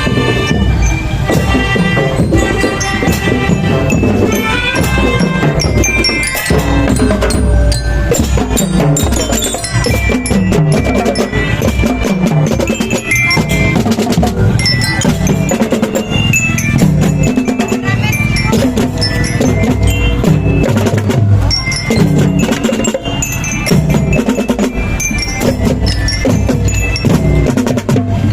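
School marching band playing: high mallet-bell notes carry the melody over a steady beat of marching drums.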